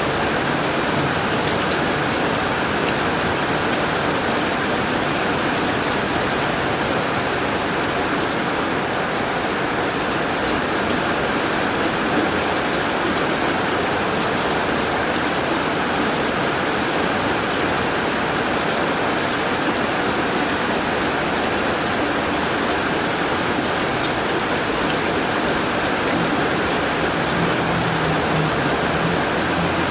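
Heavy rain falling steadily on a tin roof: a constant, even hiss of rain with scattered sharp drop ticks.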